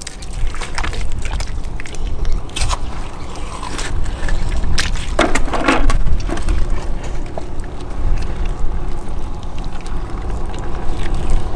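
Wind rumbling on the microphone on the seashore, with scattered knocks and scrapes.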